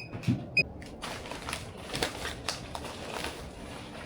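Two short electronic beeps from an appliance's buttons, the second about half a second after the first. From about a second in, a steady crackling with many irregular sharp ticks.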